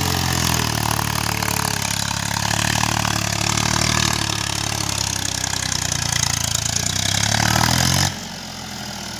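Swaraj tractor's diesel engine running hard under load as the tractor struggles stuck in sand, its pitch sagging and then climbing. The loud engine sound drops away suddenly near the end.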